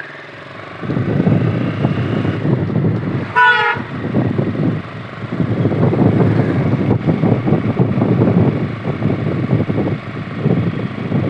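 KTM RC 200's single-cylinder engine running as the motorcycle is ridden off, loud and pulsing from about a second in. A short high toot sounds about three and a half seconds in.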